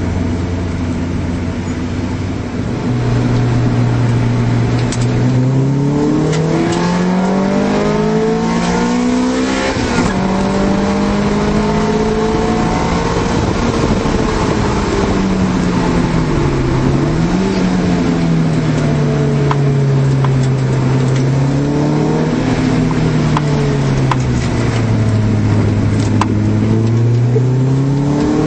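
1991 Honda Civic hatchback's four-cylinder engine heard from inside the cabin, its pitch climbing and falling as the car accelerates and eases off. The revs rise for several seconds, drop sharply about ten seconds in, dip and recover, then climb again near the end.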